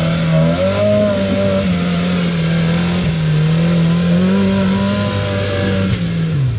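Off-road rock buggy engine revving under load while climbing, the revs rising early, held high with small wavers for several seconds, then falling back toward idle near the end.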